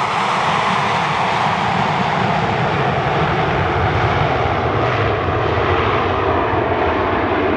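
An airplane's engines running loud and steady as it flies by, the high hiss slowly dulling.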